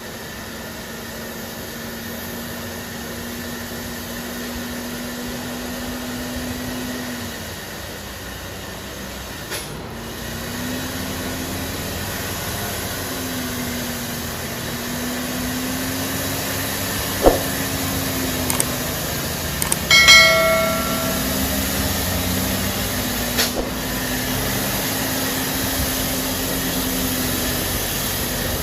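Steady hiss of heavy rain with a heavy truck's diesel engine droning underneath, its pitch wavering. There is a brief higher tone about seventeen seconds in, and a short horn-like sound about twenty seconds in.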